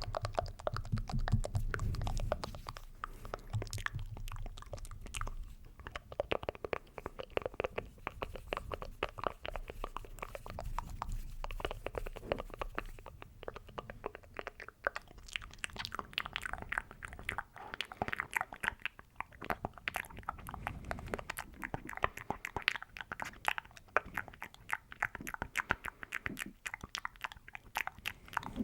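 Close-miked ASMR mouth sounds: a dense, continuous stream of small wet clicks and smacks, with some low rumble in the first couple of seconds.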